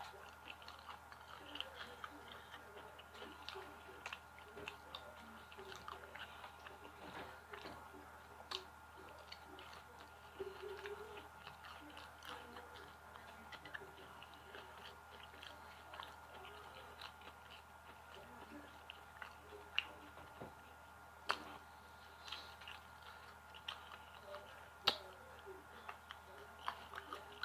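Close-up chewing of crunchy fried chicken: mouth smacking and small crackles throughout, with a few sharper crunches in the second half.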